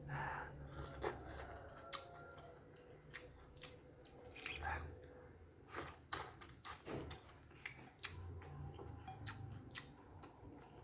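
Close mouth sounds of a man eating noodles, rice and tahu bakso (tofu stuffed with meatball) by hand: quiet chewing with many short wet lip smacks and clicks.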